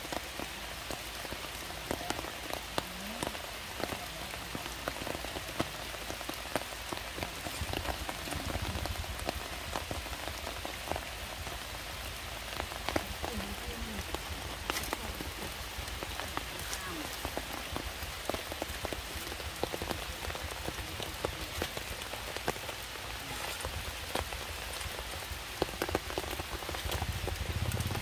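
Steady heavy rain falling on leaves and stone, an even hiss scattered with many small drop impacts.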